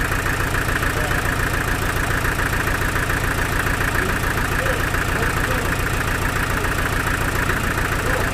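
Sawmill machinery running steadily: an even, pulsing engine drone with a constant higher whine above it.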